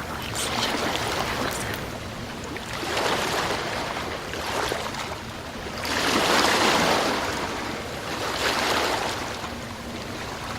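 Sea waves washing onto a shore, in swelling surges every two to three seconds; the biggest wave breaks about two-thirds of the way through.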